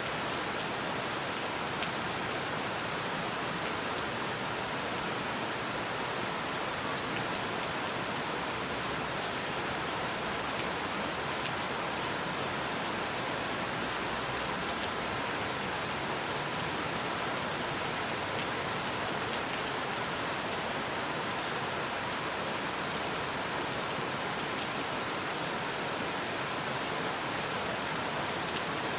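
Steady rain falling: an even hiss of rain with fine, scattered drop ticks.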